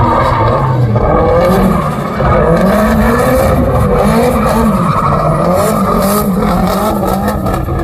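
Drift car's engine revving up and down repeatedly, with tyre squeal.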